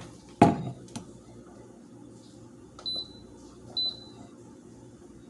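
A knock, then an Instant Pot pressure cooker beeping twice, two short high beeps about a second apart: the cooker signalling as it shuts itself off after its food-burning warning.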